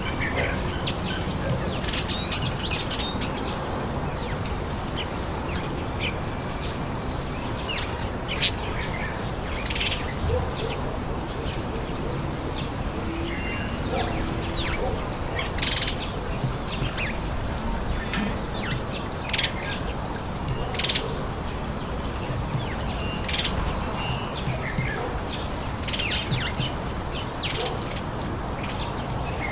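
Garden birds giving short, scattered chirps over a steady low background hum of outdoor noise.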